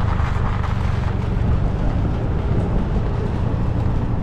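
Steady running noise of a small open-top MG Midget on the move: engine drone with road and wind noise coming through the open cockpit.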